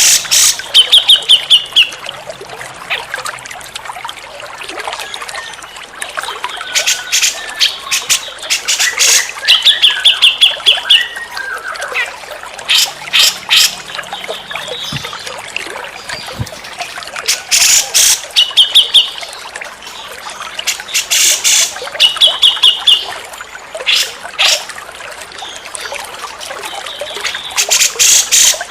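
Cucak jenggot bulbul calling in repeated loud bursts of harsh chattering notes, with short rapid trills every few seconds, over a steady trickle of running water.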